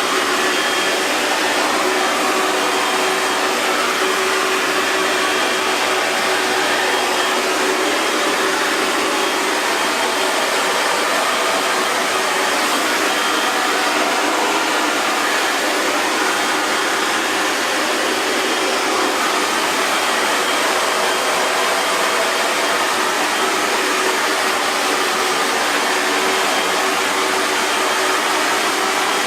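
Hair dryer running steadily: an even rush of blown air over a faint constant motor hum.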